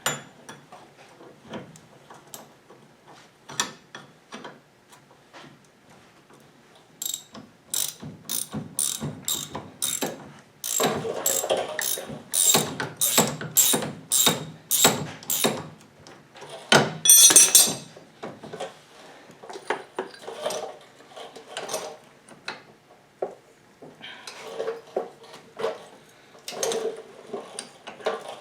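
Ratchet wrench clicking in repeated strokes, about three clicks a second at first, then faster and louder runs, with a brief louder rasp partway through and scattered knocks of tools on metal.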